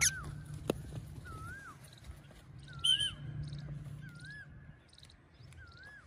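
A bird's clear whistled call repeated at a steady pace, one rising-then-falling note about every second and a half, with a brief sharper, higher chirp about three seconds in.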